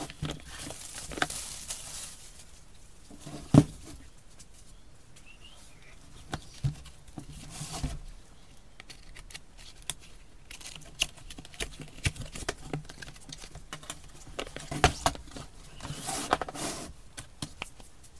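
A tool kit being unpacked by hand: rustling packaging and scattered clicks and knocks of tools being handled, with one louder knock about three and a half seconds in.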